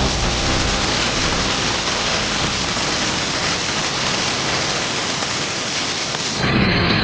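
Steady, loud rushing noise with no distinct events. Near the end it gives way briefly to a lower sound with a few held tones.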